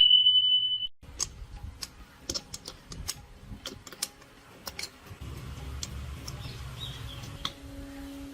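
A short, loud, high-pitched beep, then irregular light clicks and taps of hand tools working on engine parts, with a low rumble and a steady hum coming in over the last few seconds.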